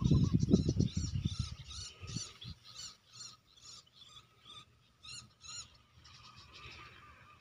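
A bird calling in a quick series of high chirped notes, about three a second, that fade out after about five seconds. A burst of low rustling noise, the loudest sound, covers the first two seconds.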